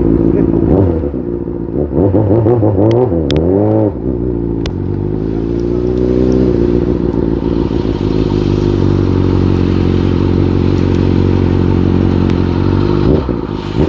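Motorcycle engine running and being revved: its pitch rises and falls several times in the first few seconds, climbs again, then holds a steady note, with a few sharp clicks in between.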